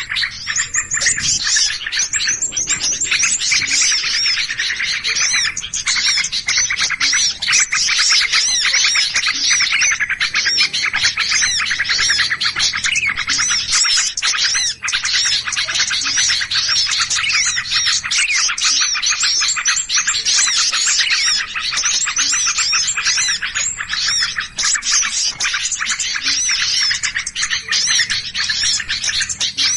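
A dense chorus of many small birds chirping and calling agitatedly. Rapid, overlapping high chirps run without a break. This is a lure recording of small birds in an agitated, alarmed state, used to draw in birds of all kinds.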